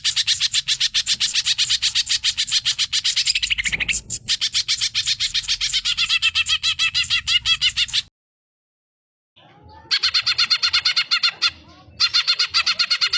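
Cucak ijo (green leafbird) singing a fast, chattering song of rapidly repeated notes. It drops out abruptly for about a second past the middle, then resumes.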